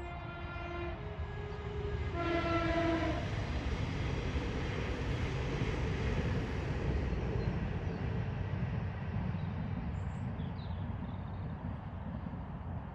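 A deep horn sounds three times in the first three seconds, the last blast the loudest, followed by a loud steady rumbling noise that builds and holds.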